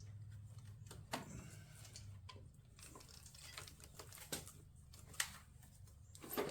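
Scattered light clicks and knocks, a few seconds apart, of a motorcycle battery being handled as it is worked loose and lifted out of its compartment.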